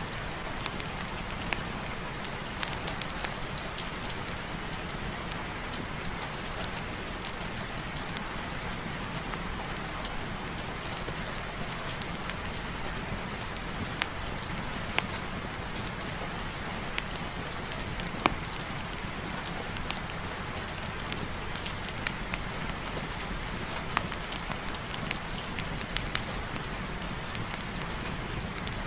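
Steady rain with scattered sharp ticks of drops striking a surface.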